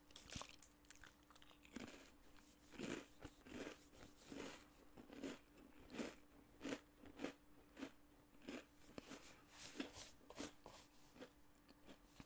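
A crisp Sultana Crunchers Italian-herb cracker being bitten and chewed. Faint, regular crunches come about one and a half times a second, starting about two seconds in.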